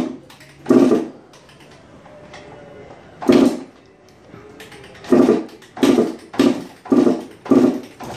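1996 Suzuki RM125 two-stroke dirt bike being kick-started over and over. There are seven short bursts of the engine turning over, one near the start, then after a pause a quick run of six, and it does not catch. The bike won't start, which the owner suspects is a carburettor problem.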